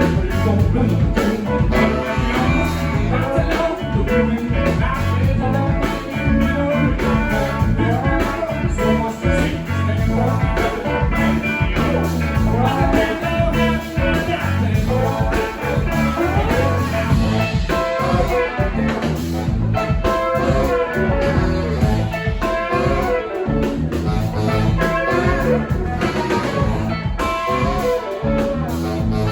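Live band playing a blues-rock number, with guitar to the fore over bass and drums.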